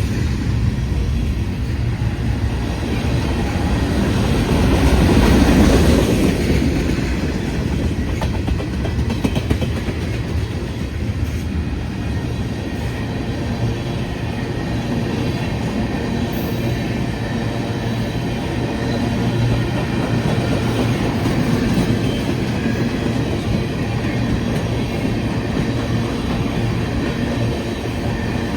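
Freight train cars rolling past, steel wheels running on the rails with a steady rumble and some clickety-clack. It is loudest about five seconds in, then holds steady.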